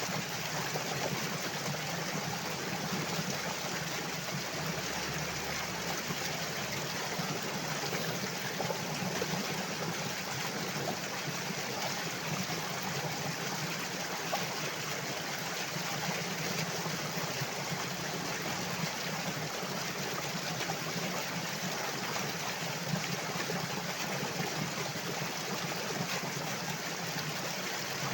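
Flowing water running steadily, an even rushing with no change.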